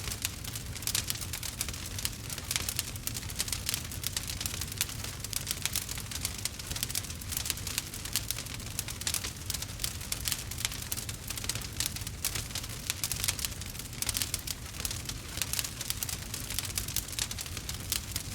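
Burning wood fire crackling, with many quick small pops and snaps close together over a steady low rumble.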